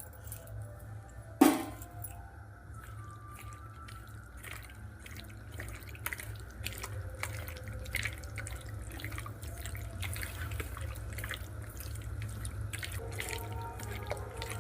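Chicken pieces being mixed by hand in a wet egg-and-spice marinade with cornflour: soft squelching and small wet clicks, more frequent from about four seconds in. A single sharp knock about a second and a half in, over a steady low hum.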